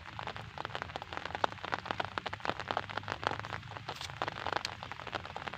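Steady rain, a dense pitter-patter of individual drops striking a surface.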